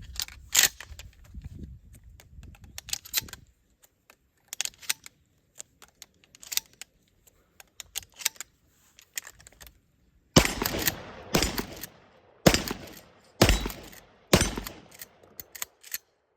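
Shells clicking and clacking as they are loaded into a short-barrelled Remington 870 12-gauge pump shotgun. About ten seconds in come five shotgun shots roughly a second apart, with the pump racked between them.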